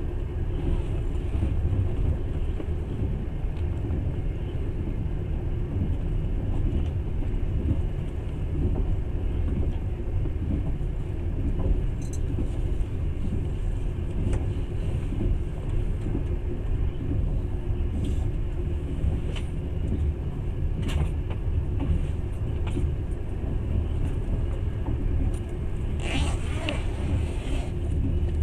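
Passenger train running along the track, a steady low rumble heard from inside the carriage. A few sharp clicks and, near the end, a short louder rushing noise.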